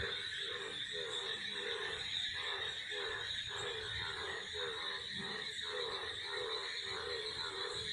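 Frogs croaking in a steady rhythm, about two calls a second, over a continuous high-pitched drone of cicadas.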